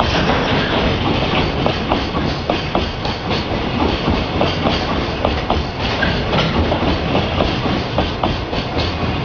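A JR Freight container freight train passing close by, its wagon wheels clattering over rail joints in a steady rumble with frequent sharp clicks.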